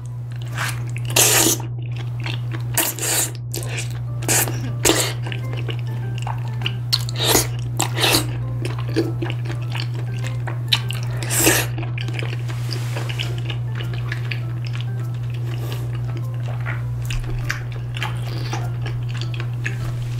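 Close-up chewing of chewy thick glass noodles and rice cakes in rose tteokbokki sauce, with loud wet mouth sounds at irregular intervals, most of them in the first twelve seconds and softer after.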